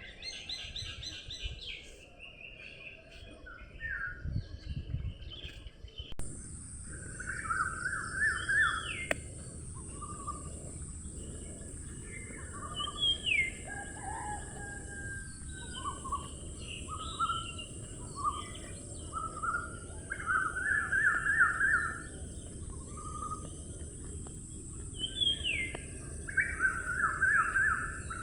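Several songbirds singing and calling: repeated short trills and quick rising and falling whistles, over a steady low rushing background. About six seconds in, a steady high-pitched hiss starts and carries on.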